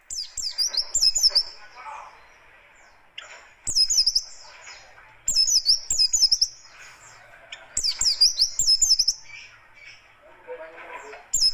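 White-eye (pleci buxtoni) singing its harsh, rapid 'tembakan kasar' song. It comes in about four loud bursts of fast, high chirps, each around a second long, with a softer, lower scratchy chatter between them.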